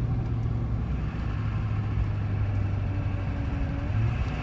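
2002 GMC Duramax turbo-diesel V8 droning steadily under load inside the cab while towing a heavy tractor trailer up a steep mountain grade, lugging a little through a curve, with road noise underneath.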